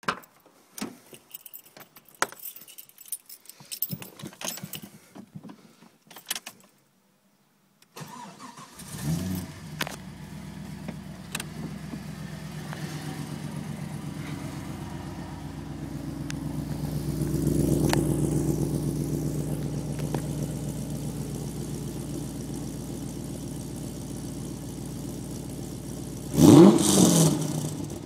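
Clicks and rattles, then Holden VU SS ute's LS1 V8 starting about eight seconds in and settling into a steady, lumpy idle through a polished 2.5-inch stainless exhaust with Pacemaker extractors. Near the end comes one sharp rev blip.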